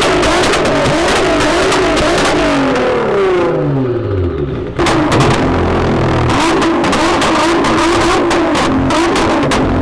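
High-performance car engines under hard acceleration. A first engine note wavers, then falls in pitch and fades; about five seconds in it cuts straight to a second car's engine running hard at a steady, higher pitch.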